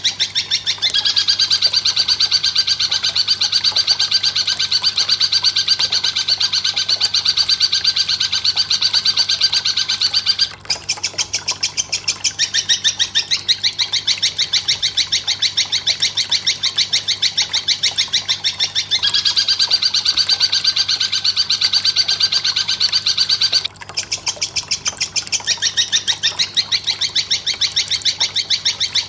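Bird-training masteran recording: a fast run of sharp, high chirps repeating several times a second, from the mix of long-tailed shrike, woodpecker and belalang kecek calls. A second, brighter chattering call layers over it about a second in, drops out near the middle, and returns for a few seconds later on.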